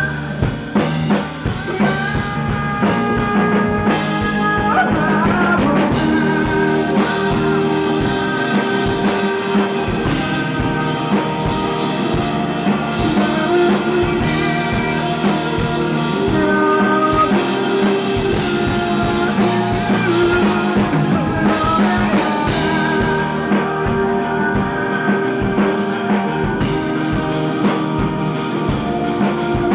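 Indie rock band playing live: drum kit, guitars and a sung vocal line together, full and continuous.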